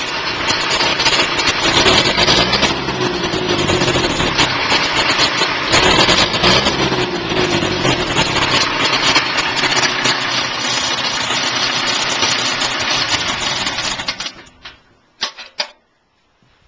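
Ferguson FE 35 tractor's four-cylinder diesel engine running after a cold start, warming through. Near the end the engine sound cuts off abruptly, followed by a few light knocks.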